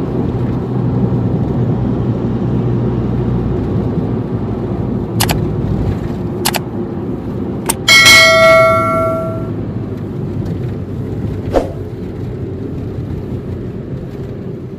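Steady low rumble with a few sharp clicks, and one loud bell-like metallic ring about eight seconds in that dies away over about a second and a half.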